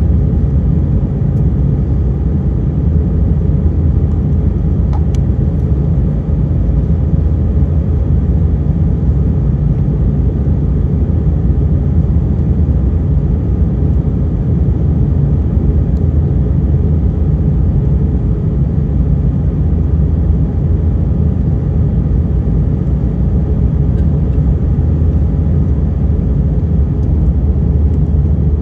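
Airbus A320 cabin noise heard from a window seat: a steady, loud, low rumble of the jet engines and rushing air that holds level throughout.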